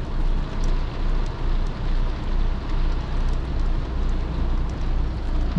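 Heavy rain falling on an RV, over the steady low hum of the RV's generator running.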